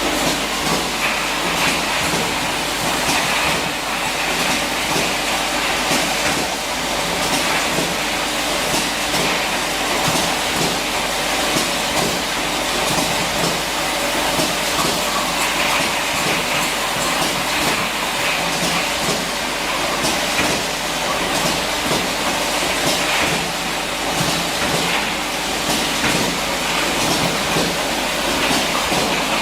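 Six-nozzle air washing machine running: a steady hiss of air jets over continuous rattling and clicking from its mechanism.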